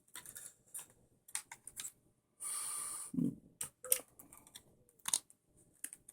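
Light clicks and taps of small plastic and metal parts being handled on an RC buggy chassis, with a short scraping rasp lasting under a second near the middle, followed by a soft knock.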